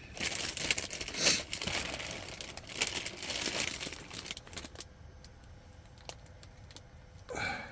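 Crinkling and rustling of plastic food packaging as ingredients are handled, dense for about the first four seconds, then quieter with a few scattered clicks.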